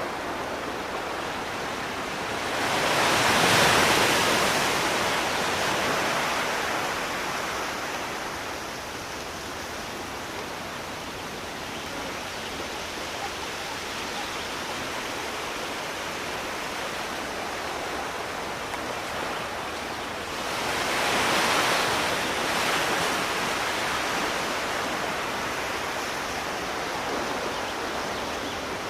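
Sea waves washing in over a steady hiss of surf, with two larger waves breaking, one about three seconds in and another a little past twenty seconds, each swelling and slowly receding.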